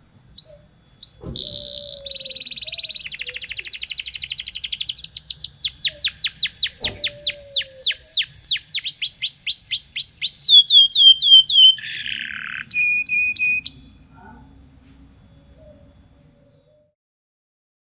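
Domestic canary singing: short trills, then a long loud run of repeated whistled notes, each sliding downward, about four a second, followed by a brief harsh buzzy note before the song breaks off.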